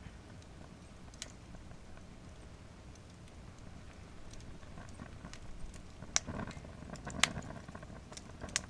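Wood fire burning in a fire pit, crackling with scattered sharp pops over a steady low rush, the pops coming thicker and louder about six to seven and a half seconds in.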